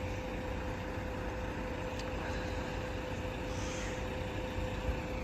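Steady low rumble of vehicle noise with a faint constant hum, and a single light click about two seconds in.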